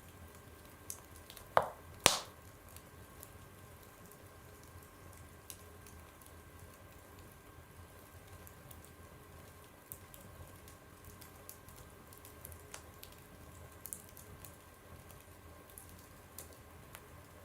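Fire crackling in a fireplace: scattered small crackles over a low steady hiss, with two loud pops about two seconds in.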